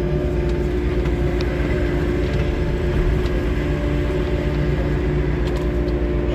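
Diesel engine of a 3W-class wheeled excavator running steadily: a low drone with a few steady pitched tones above it that hold without change.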